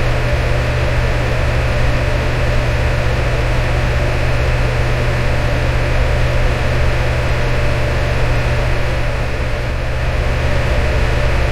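Electric fan running steadily: an even whoosh of moving air with a strong low hum and a faint steady tone in the midrange.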